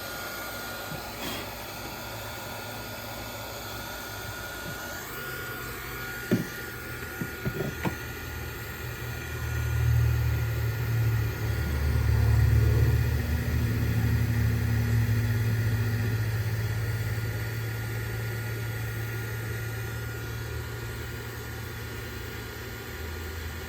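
Electric heat gun running steadily with a constant whine, shrinking heat-shrink tubing over the crimped knock-sensor wire splices. A deeper rumble swells in about ten seconds in and fades after about twenty seconds, with a few light clicks just before it.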